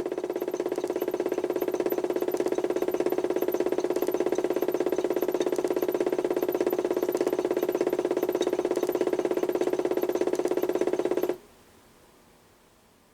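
The HUSTOO 775 DC motor of a modified toy washing machine, turning the drum through a belt and flywheel at a steady speed. It makes an even, pitched whine with a fast flutter and cuts off abruptly about 11 seconds in.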